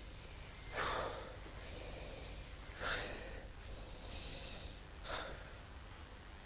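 A person breathing noisily: four short, sharp breaths or sniffs, the loudest about a second and three seconds in.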